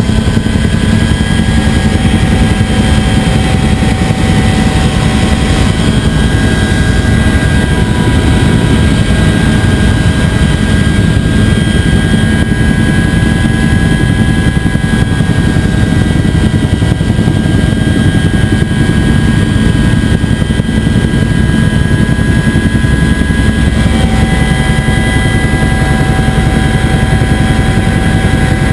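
Bell UH-1 Huey helicopter running steadily: a dense low rotor beat with a constant turbine whine over it. A few of the whine's tones change about 24 seconds in.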